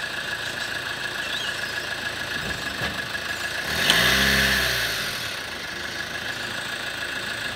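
2011 Kia Sportage four-cylinder diesel engine idling, given a brief rev about four seconds in that rises and falls back to idle. The car is jacked up in first gear with the AWD diff lock off, and the throttle is applied to test whether drive reaches the rear wheels.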